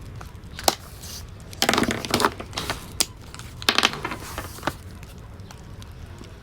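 Wood fire in a fireplace crackling, with sharp pops and short bursts of crackle over a steady low rumble.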